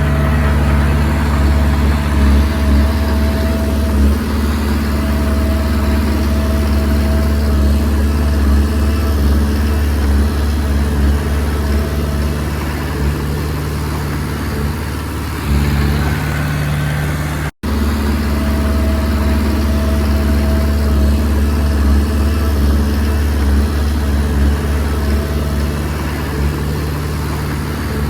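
Diesel engine of a Komatsu D20P bulldozer running steadily as the machine pushes soil, with a thin whine that comes and goes over the engine drone. The sound cuts out for an instant about two-thirds of the way through.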